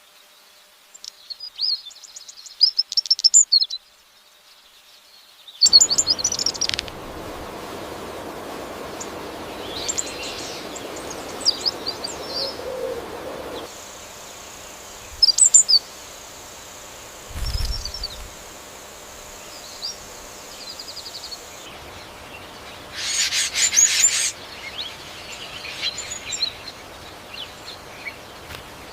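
Birds chirping and calling in short bursts of high twittering notes over a steady hiss of forest ambience. The background changes abruptly about six seconds in and again about halfway through, and there is a brief low thud partway through.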